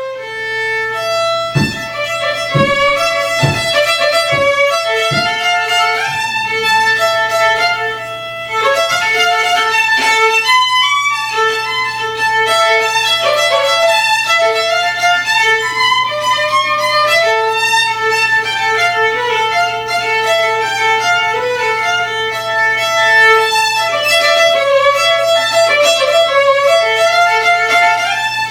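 Solo violin playing a melody, with a few low thumps between about two and five seconds in.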